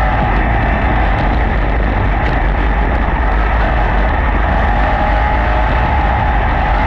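Sprint cars' V8 engines running at speed in hot laps on a dirt oval, a loud steady drone with no let-up.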